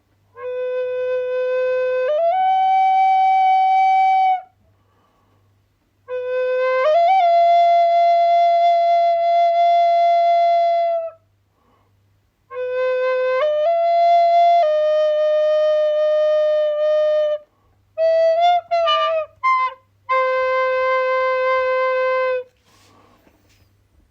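Solo flute playing slow, long held notes in phrases of a few seconds with short pauses between them, some notes sliding up into a higher pitch, and a quick run of short notes near the end.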